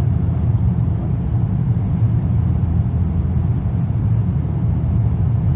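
Airbus A350 cabin noise heard from a passenger seat: a steady, loud low rumble of airflow and engines while the airliner shakes in turbulence on descent.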